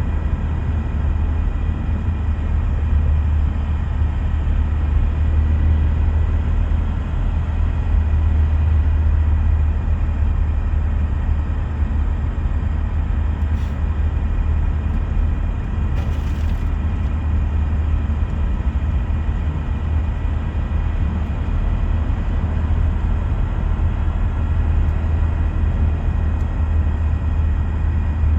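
Car being driven at road speed with a steady low drone and a faint steady whine above it: the noise complaint from its M32 six-speed manual gearbox.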